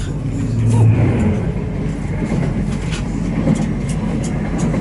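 Passenger train running, heard from inside the carriage: a steady low rumble with a few scattered clicks.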